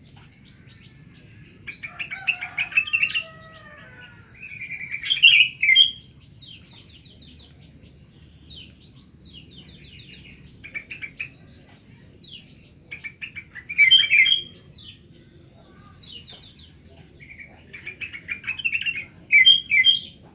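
A songbird singing in repeated bursts of rapid, high chirping phrases, the loudest bursts at about 2, 5, 14 and 19 seconds in, with quieter phrases between. Underneath lies a faint steady low hum.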